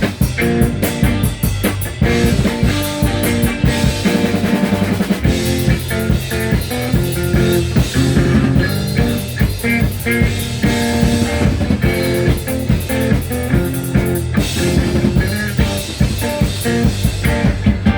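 Instrumental break in a rock song: a drum kit with rimshots and bass drum keeping a steady beat under electric guitar and bass, with no singing.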